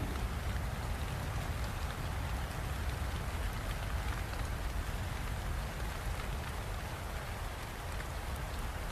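Steady rain falling and pattering on surfaces, a dense, even hiss with a low rumbling undertone.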